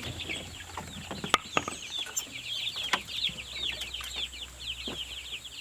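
A brood of baby chicks peeping nonstop, many quick falling chirps overlapping, with a few sharp clicks and a low steady hum underneath.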